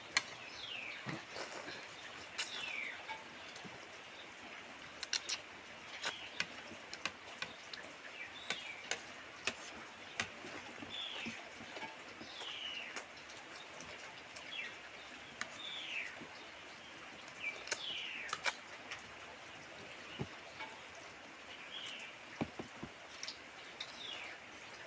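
A bird's short falling chirps repeat every second or two, with scattered small clicks and taps of eating between them.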